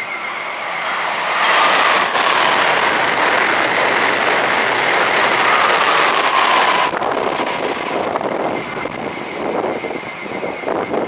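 An electric passenger train passing at speed close by: a loud rush of wheels and air that builds about a second in and cuts off sharply after about seven seconds, with a faint whine that slowly falls in pitch, then a fading rumble.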